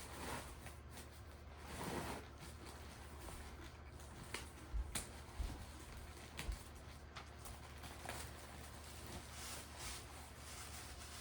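Faint rustling and a few light knocks and clicks as food packages are handled and unpacked, over a low steady hum.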